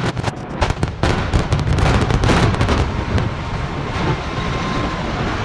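A rapid string of sharp bangs over a low rumble, thinning out after about three seconds: explosive charges going off in a building demolition.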